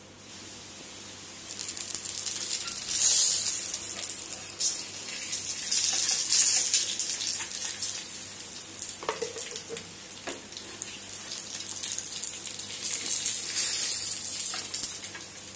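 Pizza base sizzling and crackling on a hot flat griddle pan (tawa), a hiss that swells and eases several times, with a couple of soft knocks near the middle.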